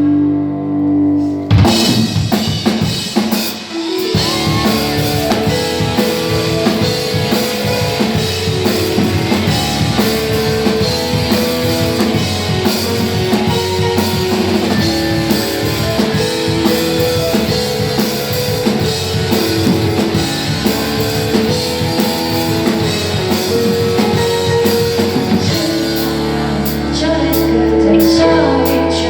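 Rock band playing live: a drum kit, electric guitar and bass, with some singing. Held chords open it; the drums come in about two seconds in and drop back near the end, leaving sustained notes ringing.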